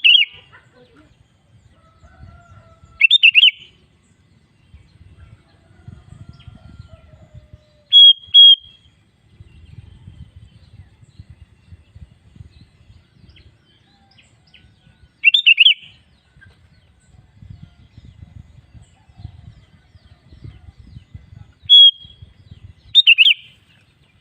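Sooty-headed bulbul (kutilang) giving short, loud chirping phrases every few seconds, including a pair of clear short notes about eight seconds in. A faint low rumble lies under the gaps between calls.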